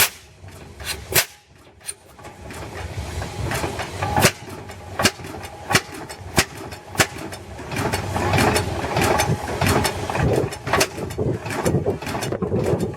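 Antique tractor engine running with loud, sharp, uneven pops from its exhaust. After a short lull about a second in, the firing picks up again, the pops coming faster and closer together near the end, as the engine catches on after being fired up.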